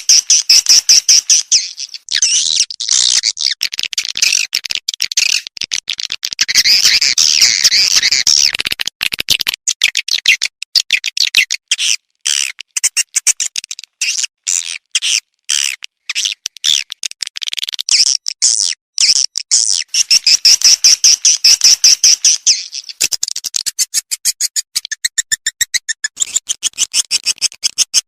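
Swiftlet calls from a lure recording of the kind played in swiftlet houses to draw the birds in: loud, rapid trains of chirps and clicking twitters, choppier and broken up in the middle.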